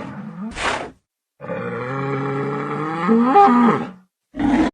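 Bull mooing: one long, low call about two and a half seconds long, with a rise in pitch near its end. Short noisy bursts of breath come before it and near the end.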